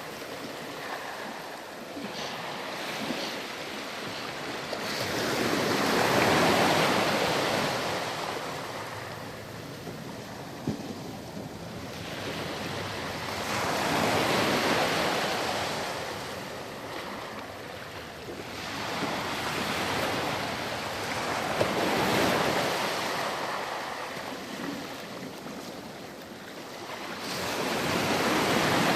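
Ocean waves breaking and washing up on a sandy beach, the surf swelling and ebbing in slow surges roughly every seven to eight seconds, with some wind on the microphone.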